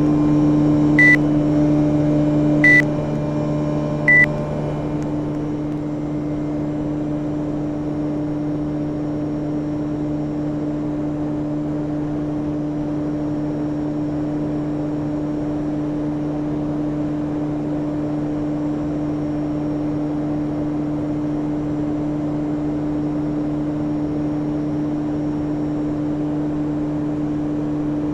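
Panasonic inverter air conditioner running with a steady hum. Four short electronic beeps sound over the first four seconds, like the unit acknowledging remote-control commands. After the last beep the hum drops a little and settles.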